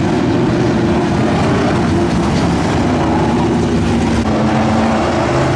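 Several dirt-track pro trucks' engines running hard together as the field races around the oval, a loud, steady din with several engine notes overlapping.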